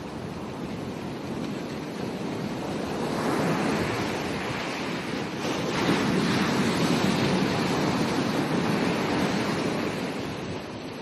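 Ocean waves breaking on a beach: a rushing surf that builds a few seconds in, is loudest in the middle and eases off near the end, with some wind on the microphone.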